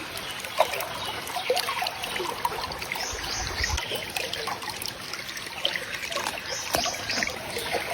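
Water trickling, with many small splashes.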